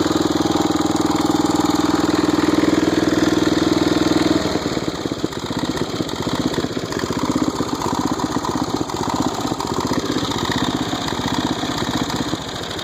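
An old Snapper rear-engine riding mower's small engine running at a steady speed, then dropping to a slower, rougher idle about four seconds in. It doesn't sound too bad, and the owner thinks the engine is okay after it was freed from a stuck starter gear.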